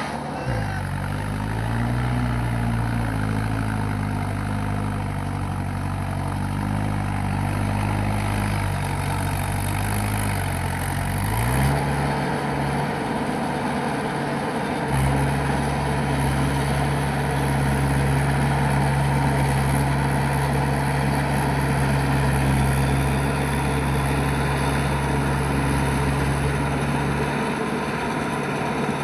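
Mahindra 585 tractor's diesel engine running, its speed rising and falling for about the first ten seconds, then settling into a steady, even run.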